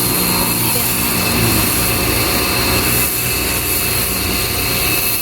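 Ava P25 high-pressure washer running steadily, its water jet spraying a floor clean.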